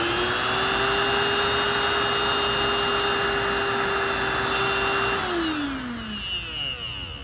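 The small electric motor of a Spray Master model 1948 air compressor running with its housing open, a test run before closing it up. It holds a steady whine, then about five seconds in it is switched off and winds down with a falling whine.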